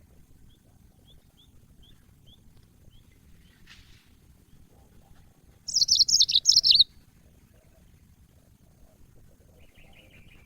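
Yellow-fronted canary (Mozambique canary) calling and singing: a few faint short chirps, then a loud burst of rapid high song notes about six seconds in lasting about a second, and a faint trill near the end.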